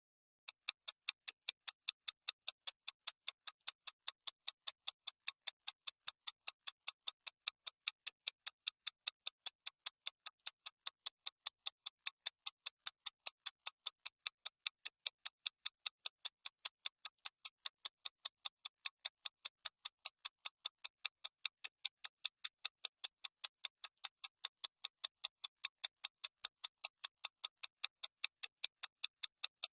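Clock-ticking sound effect, quick and evenly spaced at several ticks a second, starting about half a second in: a timer running while the matching activity is done.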